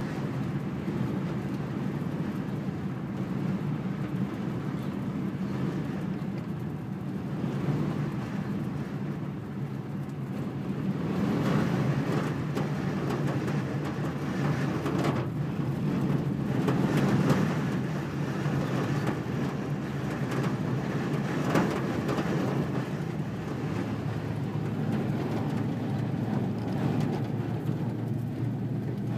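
Strong wind blowing in gusts, a low rumbling rush that swells loudest around the middle.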